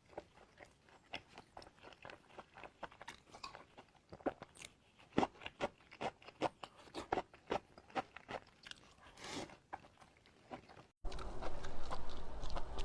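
Chewing and crunching of a deep-fried battered stuffed eggplant fritter (qie he), a string of crisp crunches at irregular intervals. Near the end it gives way abruptly to a steady hiss and hum.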